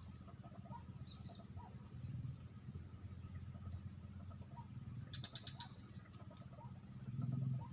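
Animal calls in a wetland: a steady, rapid low pulsing chorus runs throughout, with scattered short chirps over it and a brief run of rapid high ticks about five seconds in.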